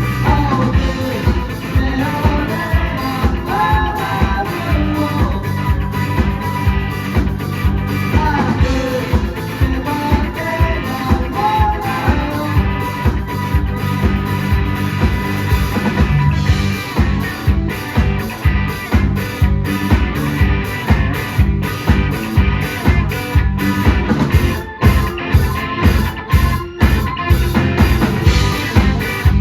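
Live rock band playing: drums keep a steady beat under bass and guitar, with a wavering lead melody line in the first half.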